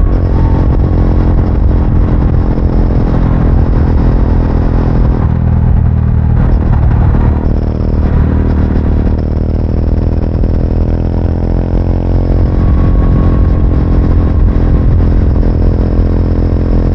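Triumph Speed 400's single-cylinder engine running under way. About six to seven seconds in the engine note drops off briefly, then the pitch rises steadily as the bike accelerates.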